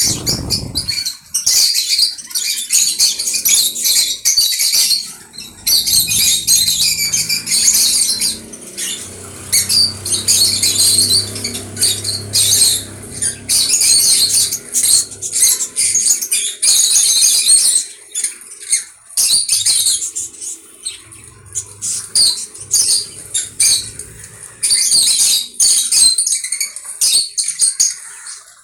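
Pet conure chattering in rapid, harsh, high-pitched squeaks and squawks, in bursts with short pauses.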